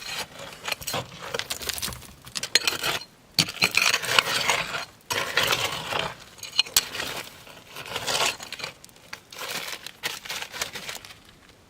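Hard objects clinking and clattering in irregular bursts, like things being rummaged through and shifted about. The noise stops shortly before the end.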